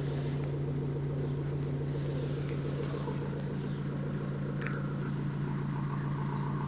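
Opel Astra J 1.7 CDTI four-cylinder turbodiesel idling steadily just after a cold start at -4 °C.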